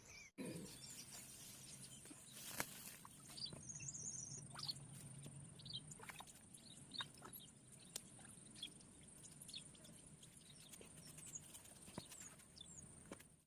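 Near silence: faint outdoor ambience with a steady high insect buzz and scattered faint bird chirps, plus a few small clicks.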